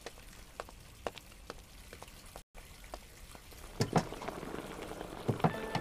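Sparse crackling and popping of food frying, with a few louder knocks of kitchen utensils about four and five seconds in. A music tone begins near the end.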